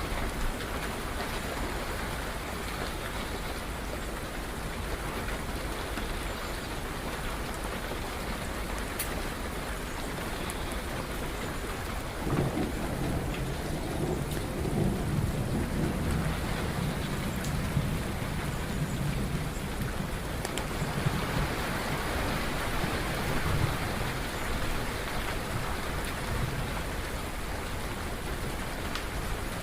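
Steady rain falling, with a low roll of thunder that sets in suddenly about twelve seconds in and rumbles away over several seconds.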